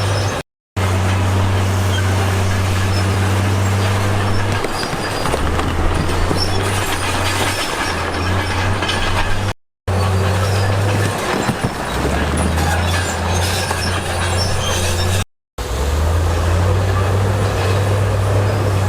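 Heavy diesel engine of earthmoving machinery running under load, its low drone stepping down and back up in pitch several times, with a steady noisy clatter over it. The sound cuts out abruptly three times, at edits.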